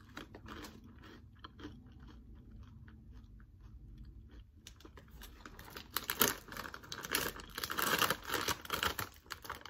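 Crunching and chewing of Takis rolled tortilla chips close to the microphone, faint at first and louder and denser through the second half.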